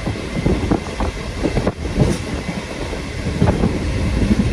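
Old non-air-conditioned passenger train coach running at steady speed with its windows open: a loud rumble of wheels on rail, with irregular knocks, clacks and rattles from the wheels and the coach body.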